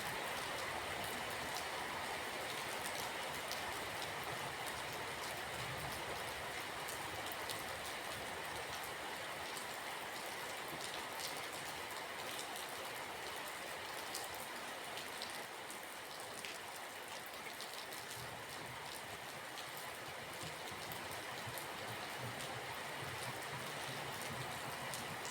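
Steady rain falling, with a dense patter of individual drops ticking on a surface over an even hiss.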